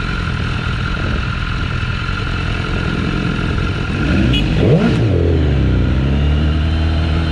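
BMW S1000RR inline-four engine running, with a quick throttle blip about four and a half seconds in: the revs rise sharply and fall back, then settle to a steady idle.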